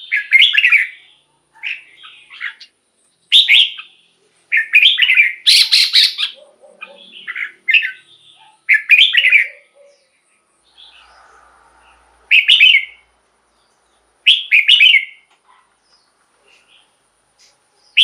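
Red-whiskered bulbul singing loud, short phrases of rich warbling notes, one after another with brief pauses, and a longer pause about ten seconds in.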